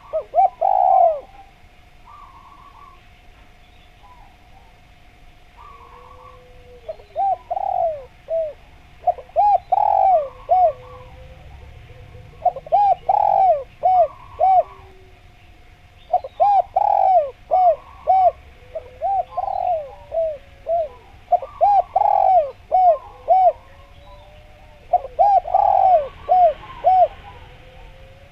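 Spotted dove (derkuku, tekukur) singing persistently: phrases of several quick coos, repeated every couple of seconds. Faint chirps of small birds sound behind it.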